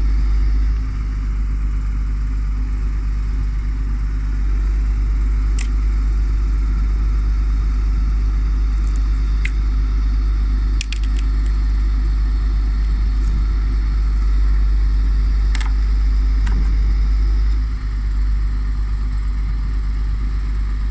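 MAN truck's diesel engine running steadily with a low rumble while its Palfinger loader crane works. A few sharp clicks are heard over it, several close together about halfway through.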